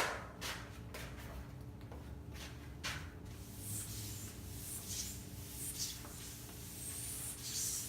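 Writing sounds: a few short taps, then scratchy pen strokes from about three and a half seconds in, over a steady low electrical hum.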